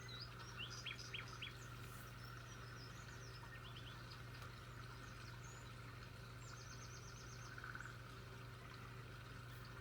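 Faint outdoor ambience with several birds giving short chirps and quick falling notes, a cluster of them in the first second and a half and a rapid trill of repeated notes about seven seconds in, over a steady low hum.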